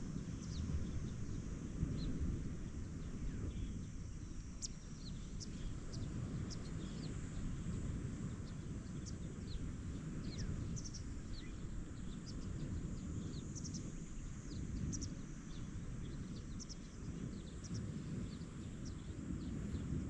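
Steady low rumble of wind buffeting the microphone over ocean waves, with many short, high bird chirps scattered throughout.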